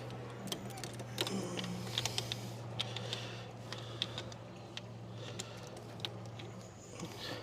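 Irregular small metallic clicks and clinks of hand tools working at the bolts of a car's starter motor, over a steady low hum that stops near the end.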